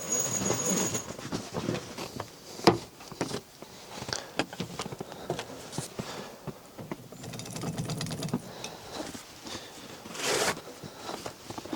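Irregular handling noises: rustling with many small clicks and knocks, a sharp knock about two and a half seconds in, and a louder rustle near the end.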